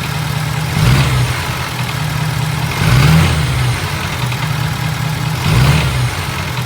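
2017 Ford F-250's 6.7 L Power Stroke V8 turbo-diesel running warmed up, with brief louder swells about every two to three seconds. The engine has a rattle its owner cannot trace and mechanics say does not sound right; the injectors tested as firing good and the heads were scoped.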